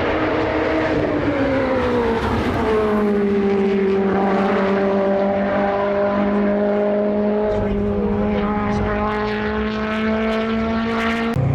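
Time attack race car engine running hard on track. Its pitch falls about a second in as the car slows, then holds nearly steady until it cuts off abruptly near the end.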